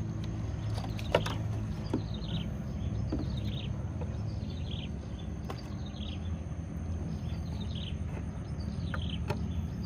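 A bird calling over and over: a short, high chirp falling in pitch, repeated a little more than once a second, over a steady low rumble, with a few faint knocks.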